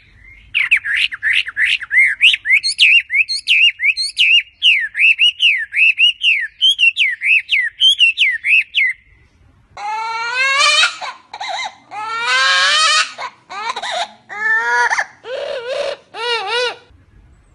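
A bird chirping in quick, repeated high notes, about four or five a second, for some nine seconds. After a brief pause come longer wailing calls that waver up and down in pitch, in short bursts, sounding like crying.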